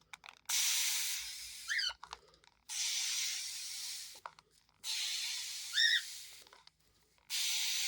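Water sprayer misting a cockatiel, in four long hissing bursts of about a second and a half each, each fading as it goes. The cockatiel gives a short rising chirp twice, about two and six seconds in.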